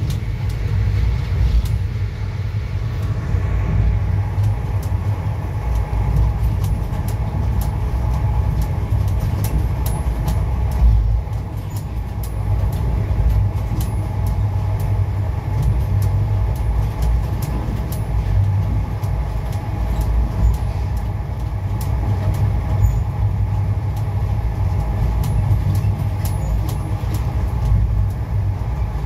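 Indian Railways express train running at speed, heard from aboard a coach: a steady low rumble of wheels on the track, with a faint hum above it.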